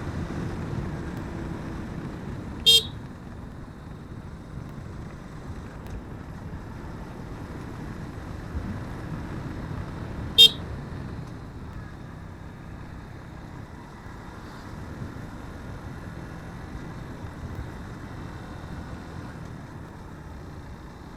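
Motorcycle running steadily along the road, with two short horn beeps, one about three seconds in and another about ten seconds in.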